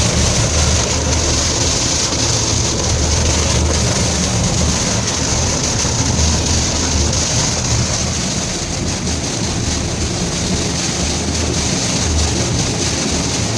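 HCP submersible motor pump running on a test after rewinding and repair, with a steady low motor hum under loud, even rushing and splashing of water.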